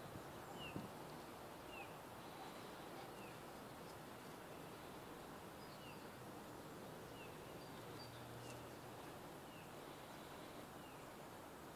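Faint outdoor ambience with a small bird calling in the background: a short, high, falling chirp repeated over and over, about once a second.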